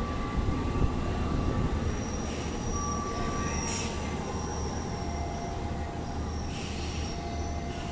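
Train at a station, its wheels squealing on the rails in thin high tones over a steady low rumble. Short hissing bursts come a few times.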